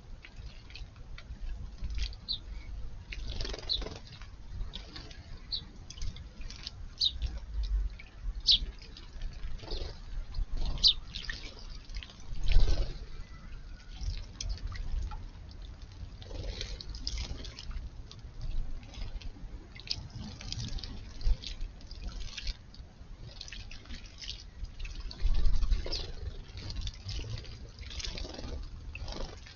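Water splashing and dripping in short, irregular flicks as house sparrows bathe in a shallow garden pond. A couple of low thumps come through, the loudest about twelve seconds in.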